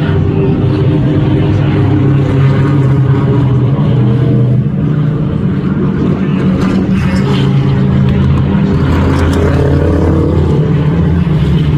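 Loud race car engines running at speed, the engine note changing pitch several times.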